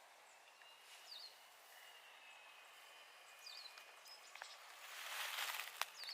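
Quiet outdoor ambience with a few short, high bird chirps, and a brief rustle with a couple of clicks about five seconds in.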